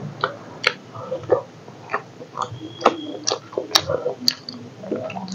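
A person eating rice and chicken curry by hand: wet chewing with frequent sharp mouth clicks and lip smacks, irregularly two or three a second.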